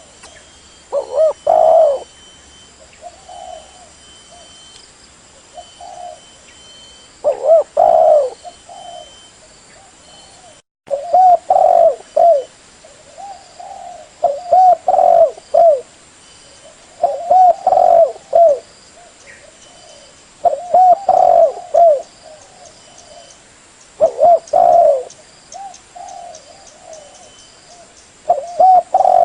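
Spotted dove (derkuku) cooing: loud phrases of a few low coos repeat about every three seconds, with softer coos between them.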